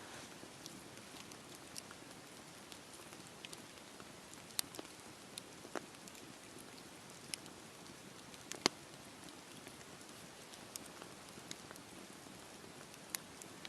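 Campfire burning: a soft, steady rustle of flames with irregular sharp crackles and pops from the burning wood, the loudest about two-thirds of the way through.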